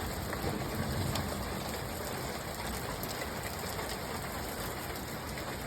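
Rain falling steadily, an even hiss of rain on surfaces.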